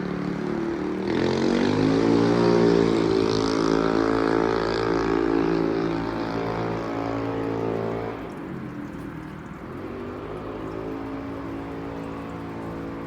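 A motor vehicle's engine accelerating, rising in pitch about a second in, then holding steady. Around eight seconds in it drops off and settles into a lower, steady run.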